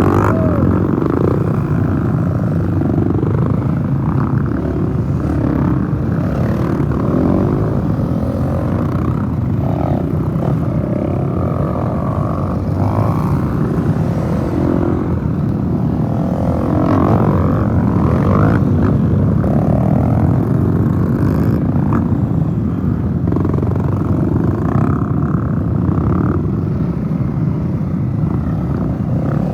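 Several dirt-bike engines running continuously, revving up and down as the bikes ride past.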